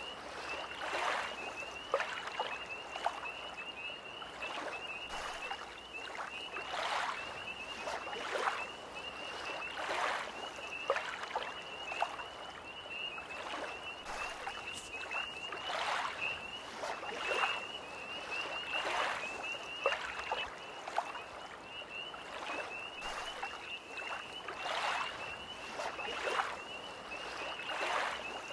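Small lake waves lapping and splashing at the shore in irregular strokes every second or two, under a continuous high-pitched trilling chorus of tree frogs.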